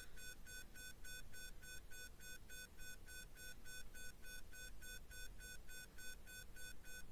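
Faint, rapid electronic beeping: short identical tones repeating evenly at about four a second.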